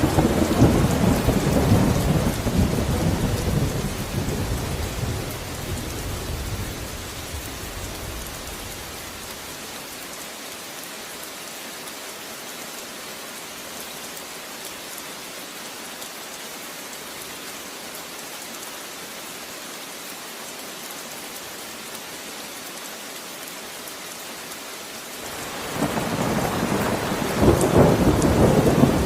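Steady rain with rolling thunder: a rumble of thunder fades away over the first several seconds, leaving only the even hiss of rain, and a second rumble builds near the end.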